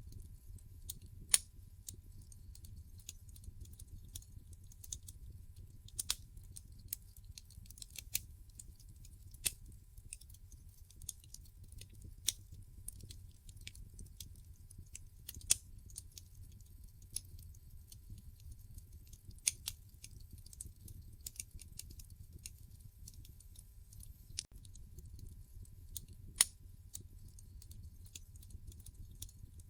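Wood fire crackling in a fireplace: irregular sharp pops and snaps, a few louder ones every couple of seconds, over a low steady rumble.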